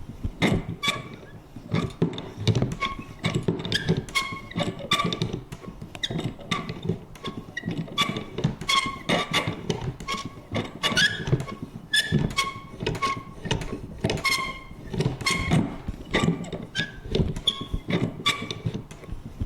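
Vintage paper punch worked again and again: a steady run of clunks, about two a second, many carrying a short high creak.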